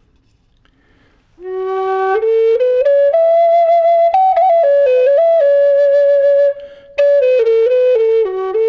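Native American flute in the key of F sharp, a woodpecker bird-head flute of ebonized walnut, playing a slow melody. It comes in about a second and a half in on its low note and climbs in steps, with a short break for breath near the seven-second mark before the phrase carries on.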